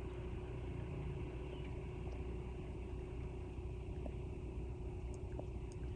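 Steady low engine rumble with a constant hum, unchanging throughout, and a few faint ticks.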